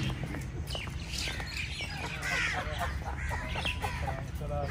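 Several birds chirping and calling in short, overlapping bursts over a steady low background hum.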